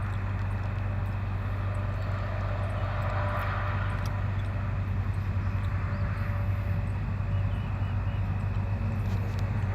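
Steady low vehicle rumble, swelling slightly about three seconds in and again near the end, like traffic going past.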